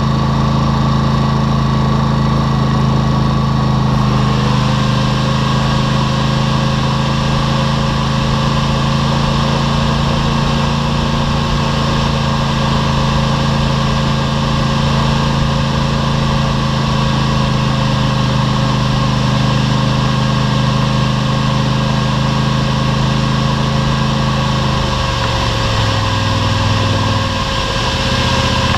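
ATV engine running at a steady speed while riding. A higher, thin whine joins about four seconds in, and near the end the engine note drops as the machine eases off.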